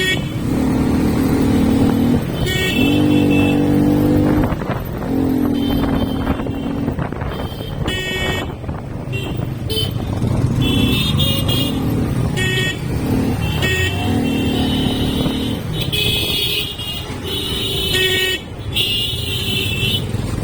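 Motor traffic heard from a moving motorcycle: a steady engine and road rumble with vehicle horns honking over and over, some deep and held for a second or two, others high and short, with no break between them.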